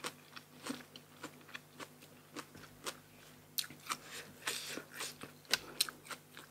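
Chewing and biting crunchy food close to the microphone: a run of crisp crunches, a couple a second, with one longer crunch near the end.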